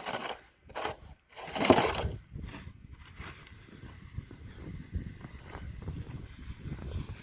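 A snow shovel pushed and scraped through snow: three quick swishes in the first two seconds, the loudest just before two seconds in, then a lower, uneven scraping rumble with small knocks.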